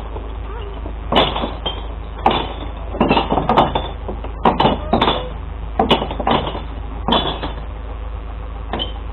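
Glass bottles clattering and smashing in a series of crashes, roughly one burst a second, as recycling glass is tipped into a glass-collection truck. A steady low engine hum from the truck runs underneath.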